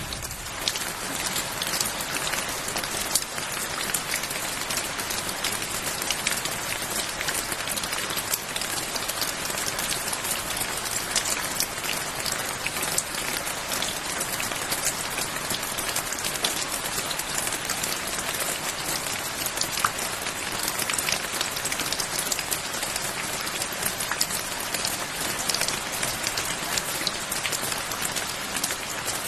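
Steady rain falling on a surface, an even patter of many individual drops.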